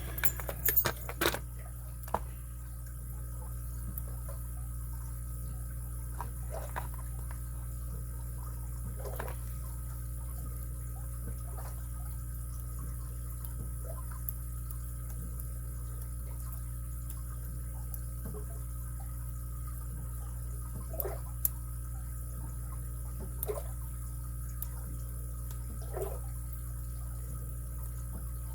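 Lock picks and a tension wrench working in a padlock's keyway: a few sharp metallic clicks at first, then sparse faint ticks, over a steady low hum.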